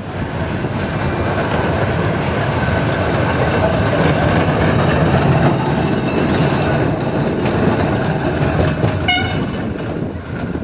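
A Blackpool heritage tram running past, its rumble building to a peak midway. About nine seconds in comes a short horn toot.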